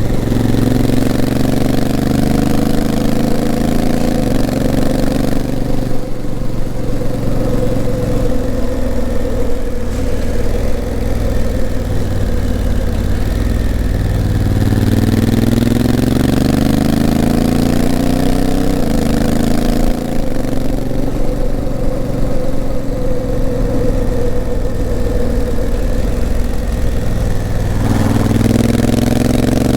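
Honda CRF1000L Africa Twin's parallel-twin engine pulling steadily, its pitch climbing as it accelerates and stepping down at gear changes by its DCT gearbox: about four seconds in, twice near the twenty-second mark, then rising again near the end.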